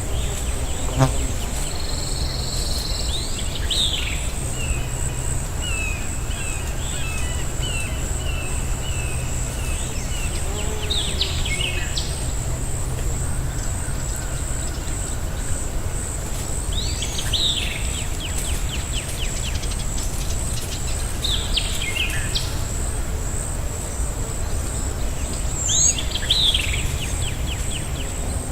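Forest ambience: an insect's steady, high-pitched, evenly pulsing buzz throughout, with a bird calling every few seconds in quick downward-sweeping notes, each followed by a short trill, over a low rumble.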